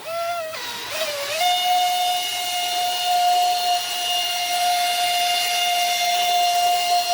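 Brushless motor of an RC water-jet drive running with a high, steady whine and a hiss; the pitch dips and wavers in the first second and a half, then holds steady at a constant speed.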